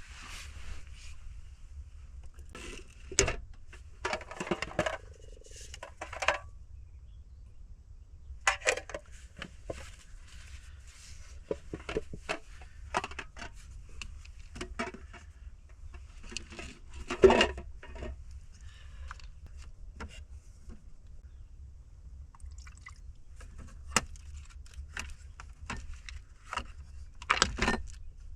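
Scattered clicks, knocks and short bouts of clatter as coffee-making gear is handled in a small space, with one loud knock a little past the middle.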